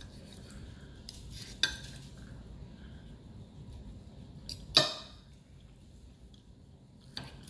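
Cutlery clinking and knocking against a plate a few times, with the sharpest clink just before five seconds in.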